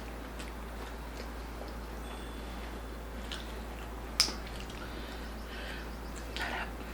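Mukbang eating sounds of crispy pork belly lechon: quiet chewing with scattered small clicks over a steady low hum, one sharp click about four seconds in, and a short rustling burst near the end.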